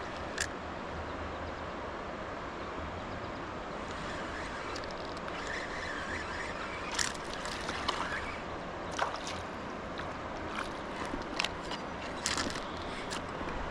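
River water rushing and sloshing steadily around a kayak, with scattered sharp clicks and knocks.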